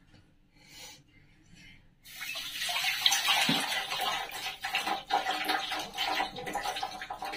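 Water running from a tap, starting suddenly about two seconds in and running steadily.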